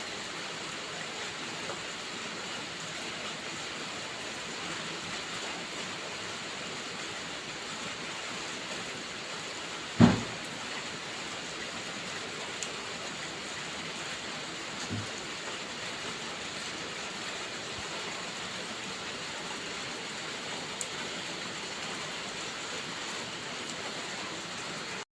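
Steady heavy rain, an even hiss, with a few faint fireplace crackles and one loud sharp crack about ten seconds in.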